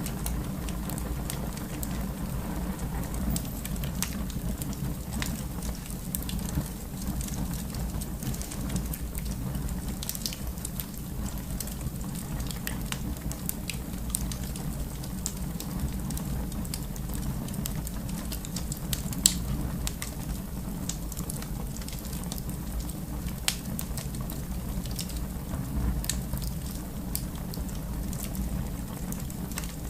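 Wood fire crackling in a fireplace: a steady low roar of flames with scattered small crackles and a few louder pops, the loudest about two-thirds of the way through.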